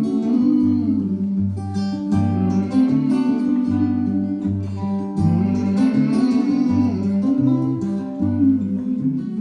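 Acoustic guitar playing an instrumental passage, with a regular bass line underneath.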